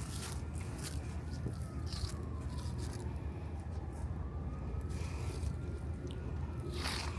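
Footsteps crunching through dry fallen leaves, a few scattered steps, over a steady low city rumble. A distant siren wails faintly, sliding slowly down in pitch and back up.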